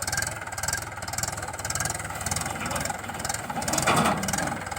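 A tractor-type engine sound running steadily with a fast, even chug, rising louder briefly about four seconds in, as the toy tractor strains to pull the stuck truck.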